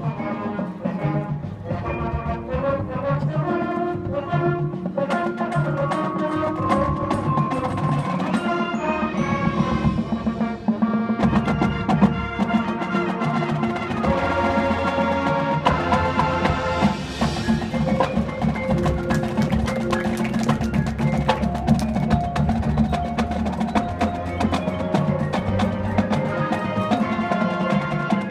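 Marching band and front ensemble playing, with woodwinds and brass over mallet percussion and sharp wood block and drum strikes.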